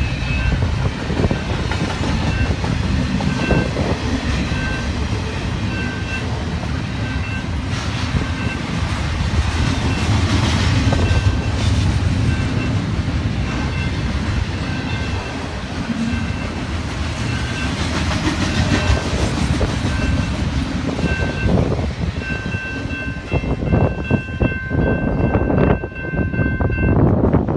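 Double-stacked container freight train rolling through a level crossing: a steady rumble with wheel clatter from the cars. A level-crossing signal sounds a repeating ring over it, standing out more clearly near the end, when the last cars clatter past.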